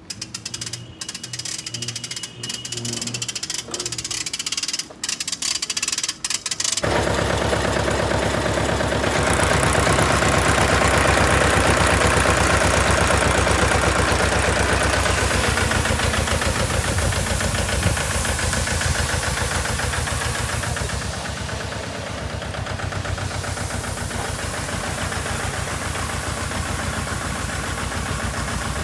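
A few clicks and knocks, then about seven seconds in a tractor engine comes in suddenly and runs steadily, driving the mounted sprayer pump with a fast, even pulsing.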